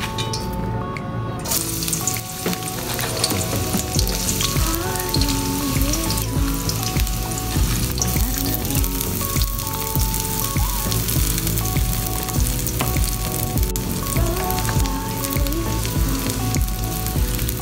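Chopped onions sizzling as they fry in hot oil in a wok; the steady sizzle starts about a second and a half in as they go into the pan. Background music with a melody plays throughout.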